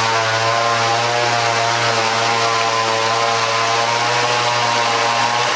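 Two-stroke chainsaw running at a steady high speed, cutting wood, its engine note held at one even pitch.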